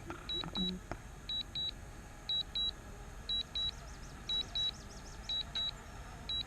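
Drone remote controller's warning beeps: short high double beeps repeating about once a second, sounding as the aircraft battery runs low at 21%.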